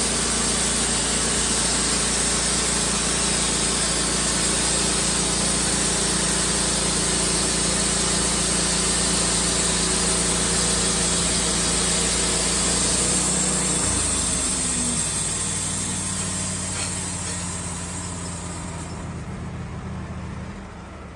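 Engine-driven saw running under load, cutting into a hard hickory log with a steady engine note and a hiss of cutting. About two-thirds of the way through the engine note changes and the sound gradually dies down near the end.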